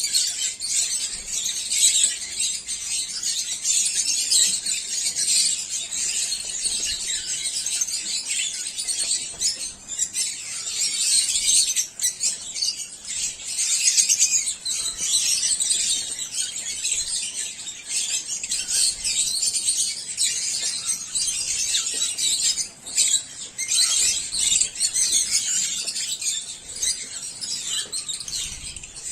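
A flock of African lovebirds calling and chattering continuously in a dense, high-pitched din.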